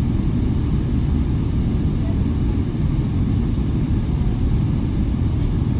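Airliner engine and airflow noise heard inside the passenger cabin: a loud, steady low rumble.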